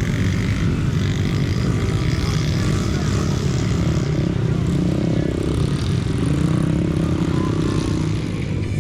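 Small dirt bike engines running and revving, their pitch rising and falling around the middle.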